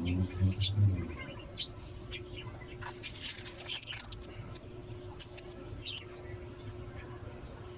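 Small birds chirping here and there, with a cluster of chirps about three seconds in, over a steady low hum.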